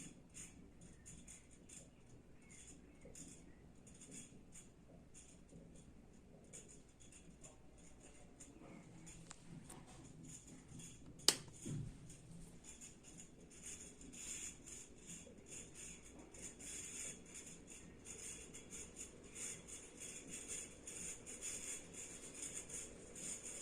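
Primavera Tropical ceiling fan running quietly with a low hum and a rapid, light ticking rattle that grows a little louder later on. A single sharp click comes about halfway through.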